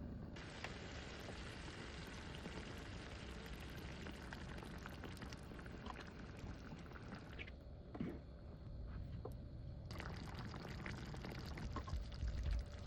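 Creamy chicken and mushroom sauce bubbling in a pan, a steady soft hiss that thins out for about two seconds past the middle and then comes back.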